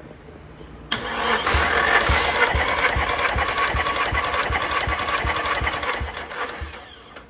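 Nissan SR20DET turbocharged four-cylinder engine cranking on its starter motor for a compression test, with even low compression pulses about three to four a second. It starts abruptly about a second in and stops abruptly about six seconds later without firing up.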